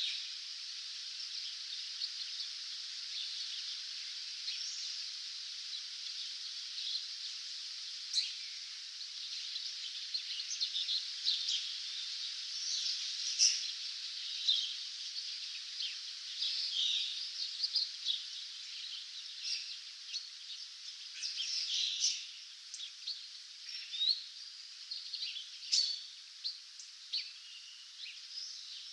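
A dawn chorus of many small songbirds singing at once: a dense, constant mass of overlapping high chirps and trills, with louder single calls from nearer birds standing out every second or two.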